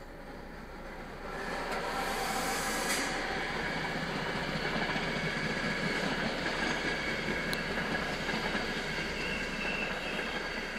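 Regional passenger train running past over a level crossing, heard from inside a car waiting at the barrier. Its rolling noise swells about a second in, with a sharp hiss at about two seconds, holds steady, and starts to fade near the end.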